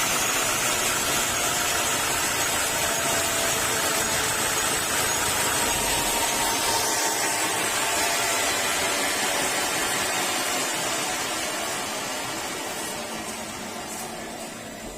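Sawmill saw running steadily with a noisy mechanical drone, fading away over the last few seconds.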